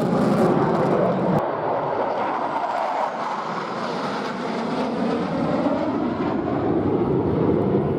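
Airplane flying past, a loud steady engine rush whose tone sweeps as it goes by.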